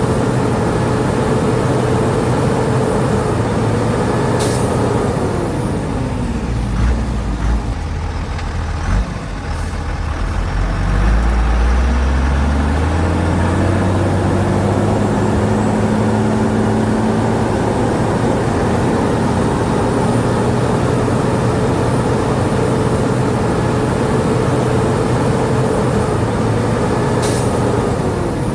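Heavy diesel engine of earthmoving machinery running loud and steady. Its revs drop about five seconds in and climb back up from about eleven seconds. Short sharp hisses come near the start and again near the end.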